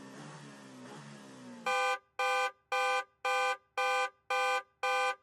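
Electronic countdown-timer alarm: after a quiet background, a loud run of identical beeps starts about a second and a half in, about two a second, marking the end of the time allowed.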